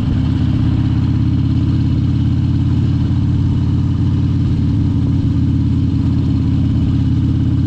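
Harley-Davidson Dyna Wide Glide's V-twin engine running steadily while being ridden, holding the same revs throughout.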